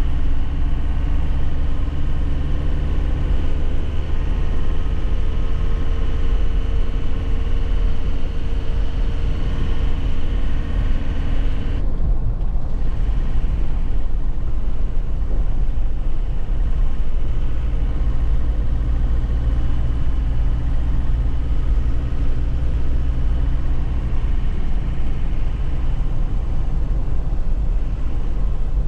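2001 Nissan Cabstar light truck's diesel engine running while driving, heard as a steady engine note. The engine note drops about twelve seconds in, with a brief dip in the higher sound.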